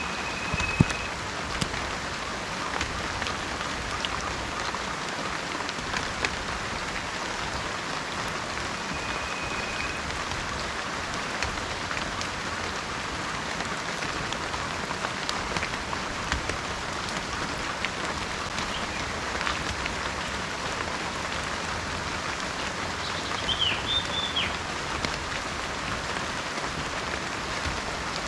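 Heavy rain falling steadily, with many individual drops clicking sharply close by. A couple of brief high whistles sound, near the start and about nine seconds in, and a short wavering high call comes about twenty-three seconds in.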